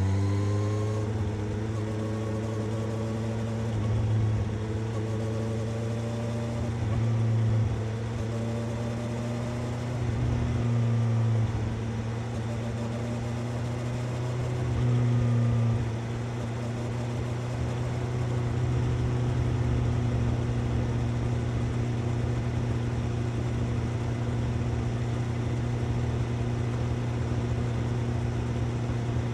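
Suzuki GSX-S750 inline-four engine and exhaust running steadily while the motorcycle is ridden. The note swells briefly a few times in the first half, then holds even.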